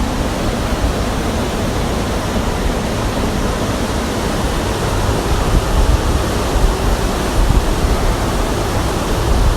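Steady rush of flowing water, with an uneven low rumble underneath.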